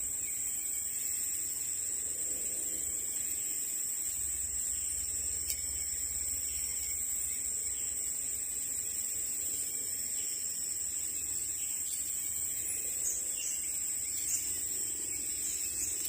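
Steady high-pitched drone of insects, with one faint click about five seconds in and a few short, faint calls near the end.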